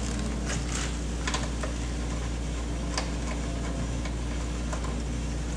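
Plastic engine beauty cover being handled and pulled off its mounts, giving a few scattered light clicks and taps over a steady low hum.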